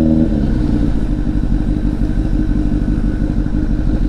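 Honda CBR1000RR's inline-four engine dropping to idle about a quarter second in, then idling with a fast, even low pulse.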